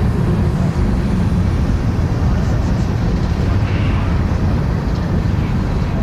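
Train passing close by: a loud, steady low rumble with no break.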